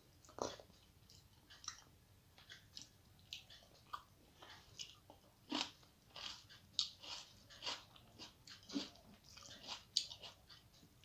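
Close-miked chewing of rice and lentil dal eaten by hand: irregular short wet smacks and clicks of the mouth, one or two a second.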